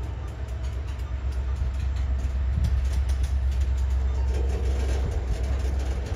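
A train passing: a steady low rumble with repeated clicks of wheels on the rails.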